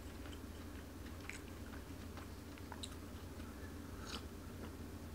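Faint mouth sounds of a man chewing food: small wet clicks scattered through. About four seconds in he sips vegetable juice from a plastic cup.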